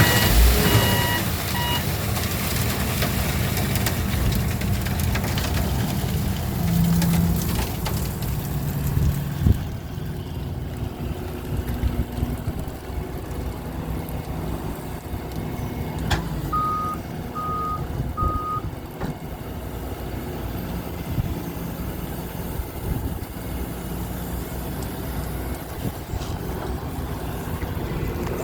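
Road repair trucks and heavy equipment engines running steadily. A reversing alarm beeps over the first two seconds, then three short beeps sound about 17 seconds in.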